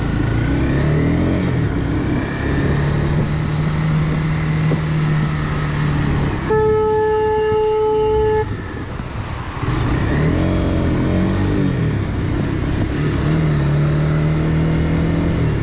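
Road vehicle engines running in traffic, steady with some rising and falling revs, and a horn blown steadily for about two seconds, about six seconds in.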